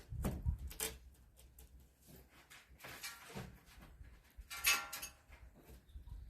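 Faint, scattered clicks and small knocks of broken window glass and tools being handled in an old steel glazing frame, with one brief, brighter clink about three-quarters of the way through.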